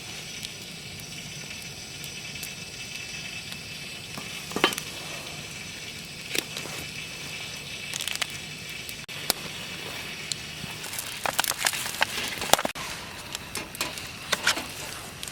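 Food sizzling in a pan, a steady hiss with sharp clicks and knocks of utensils against the pan now and then, thickest a little past the middle.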